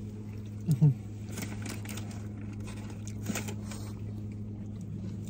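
A person chewing a mouthful of a soft-bread smoked salmon sandwich, with faint wet clicks of the bite, and a short low "mm" about a second in. A steady low hum runs underneath.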